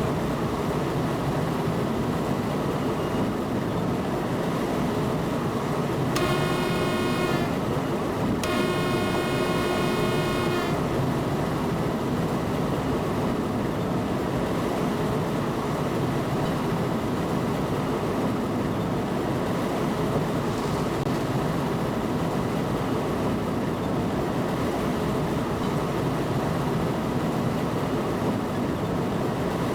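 Train running, heard from inside the locomotive cab: a steady rumble and rattle, with two blasts of the train horn about six and eight seconds in, the second one longer.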